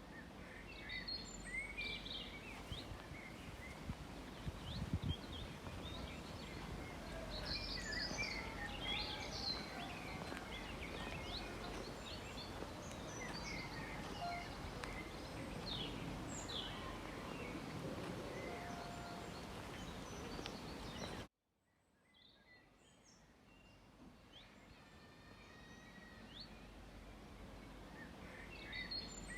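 Several wild birds chirping and singing in short calls over a steady outdoor background hiss. About two-thirds of the way through, the sound cuts out abruptly, then fades back up with birds still calling.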